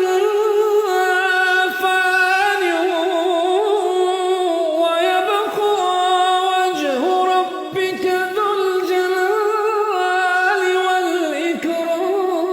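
Quran recitation by a single male voice, chanted melodically in long held, ornamented notes with no instruments, broken only by short pauses for breath.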